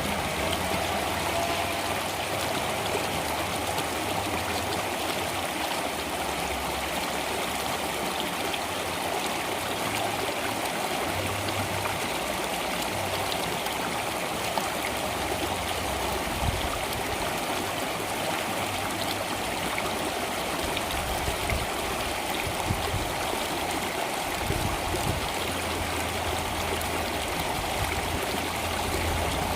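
Flowing water of a stream, running steadily and without a break.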